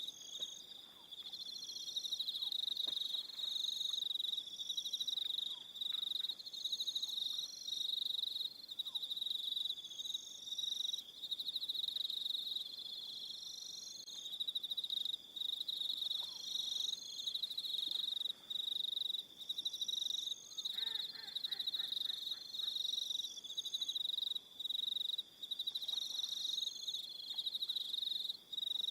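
Crickets chirping in an evening chorus: a dense, high-pitched trill broken into bursts, with a second, higher insect call coming and going above it. About two-thirds of the way in, a brief lower call cuts in.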